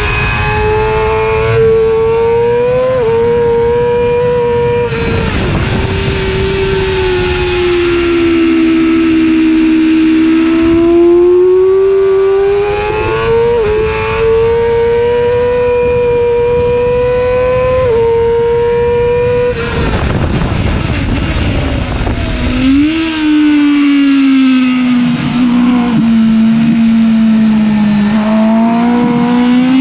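Yamaha YZF-R6 inline-four sport bike engine at full throttle on track. It revs high and climbs through quick upshifts, with brief breaks in the tone, then falls away as the rider rolls off and downshifts for corners, and builds again. A rushing noise swells when the revs drop about twenty seconds in.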